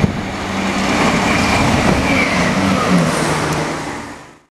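ScotRail class 170 Turbostar diesel multiple unit passing through at speed without stopping: a loud, steady rush of wheels and engine hum, with a high tone that slides down about two seconds in as it goes by. It fades, then cuts off suddenly near the end.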